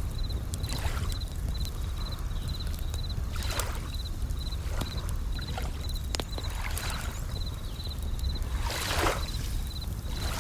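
Bell crickets chirping in a steady, even pulse of high chirps, about two a second, over waves washing in with swelling rushes and the sharp crackle and pops of a wood campfire.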